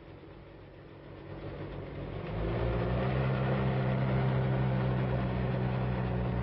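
Propeller aircraft piston engines droning: the sound swells in over about a second, then holds steady and loud.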